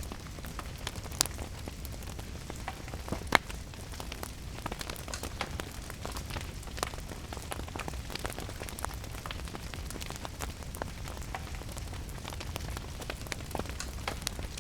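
Wood fire crackling in a fireplace, with many small snaps and two louder pops in the first few seconds, over a steady low rumble and the patter of rain.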